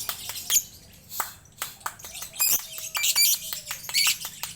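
Songbird singing: quick high chirps and short trills, interspersed with many sharp clicks.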